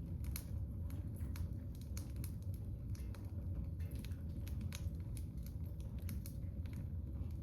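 Firewood crackling in a wood-burning stove: irregular sharp pops and snaps over a low steady rumble of the fire.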